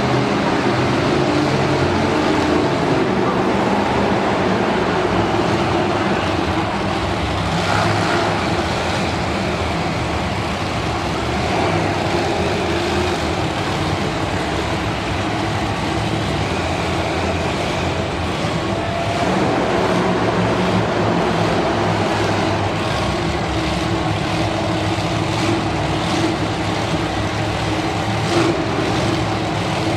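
Monster truck engine running steadily inside an arena, loud and continuous.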